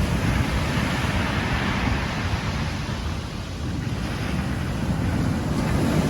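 Strong wind buffeting the microphone over the rush of surf on a beach; the hiss of the water swells in the first few seconds and then eases.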